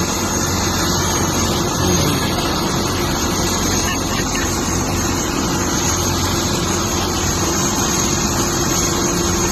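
Helicopter running steadily, a loud even rush of noise with a constant low hum and a thin high whine.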